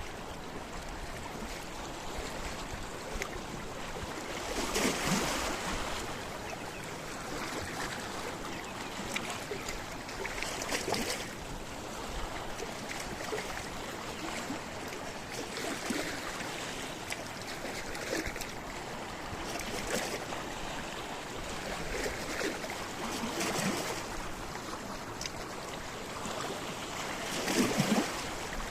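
Sea waves washing against a rocky shore: a steady wash with splashes breaking every few seconds, the loudest about five seconds in and near the end.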